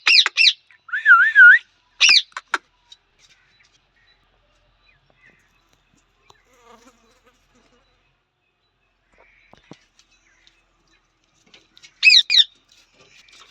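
Parrot calls: a quick run of shrill, wavering calls, a short warbling whistle that wobbles up and down, and another call in the first few seconds, then a long lull and a second burst of shrill calls near the end.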